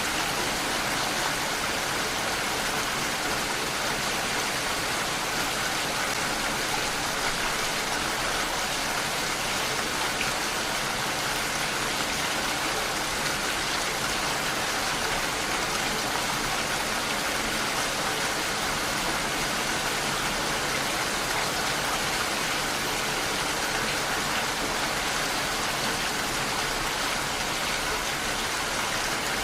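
Steady rainfall, an even hiss of rain without let-up.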